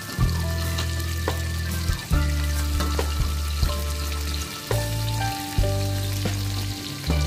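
Chicken pieces deep-frying in hot oil in a metal wok: a steady sizzle with a few clicks of the spatula against the pan. Music with deep bass notes plays underneath.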